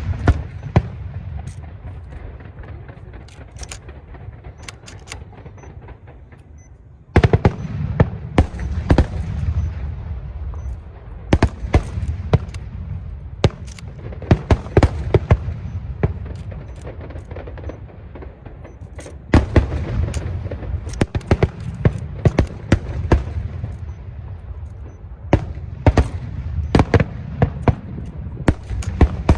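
Aerial fireworks exploding in barrages: many sharp cracks in quick clusters over a rolling low rumble of booms. A brief lull about six seconds in gives way to a sudden new volley, and another starts about two-thirds of the way through.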